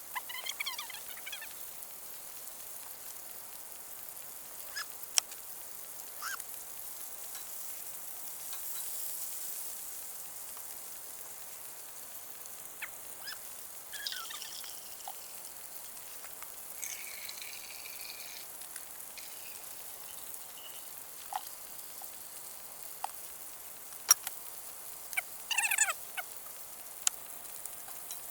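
Outdoor ambience with a few scattered bird calls, short pitched calls at intervals, over a steady faint high hiss and occasional sharp clicks.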